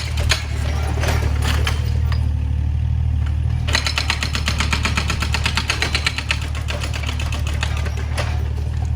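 Excavator's diesel engine running steadily under a low drone, with scattered knocks early and a rapid clattering of metal and debris for a couple of seconds near the middle.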